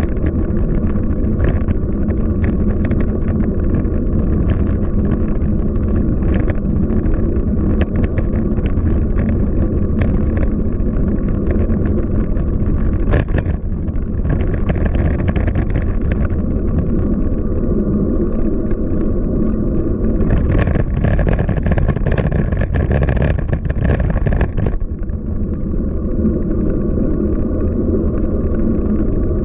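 Downtown street noise: a steady low rumble of road traffic with scattered short clicks, swelling louder for a few seconds past the middle.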